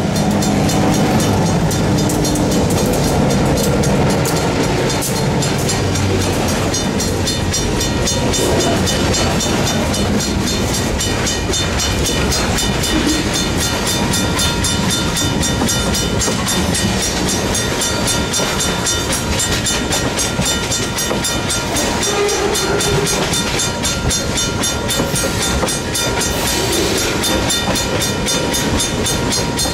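East Penn Railroad EMD diesel locomotives running past, their engines strongest in the first several seconds, followed by the steady rumble and clatter of a train's wheels rolling over the rails.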